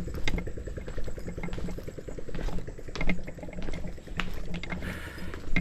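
Small motorbike engine running at low speed, with scattered clicks and knocks.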